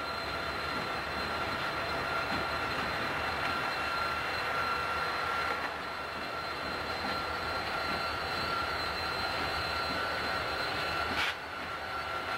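Southern Pacific diesel-electric locomotives passing slowly at the head of a freight train, engines running and wheels rolling on the rails, with a steady high whine over the rumble. A short sharp click comes about eleven seconds in, after which the sound drops a little.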